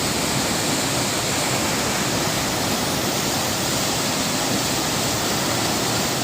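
Steady, loud rush of falling water from a small waterfall.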